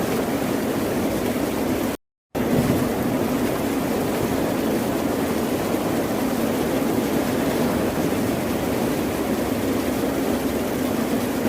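Continuous ocean surf, a dense steady wash of waves without distinct breaks. It cuts out to complete silence for about a third of a second around two seconds in, then resumes.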